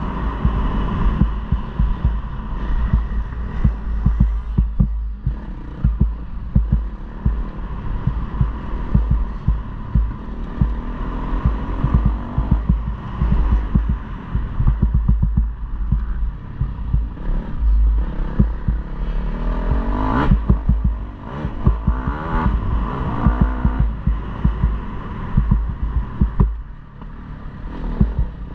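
KTM 250 motocross bike engine running and revving through the gears, over heavy low thumping and buffeting. A sharp rise in revs about 20 seconds in is the loudest moment, and the level drops briefly near the end.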